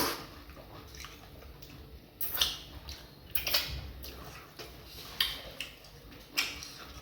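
Wet eating sounds: a handful of short smacks and slurps of fufu and vegetable soup eaten by hand, coming every second or so.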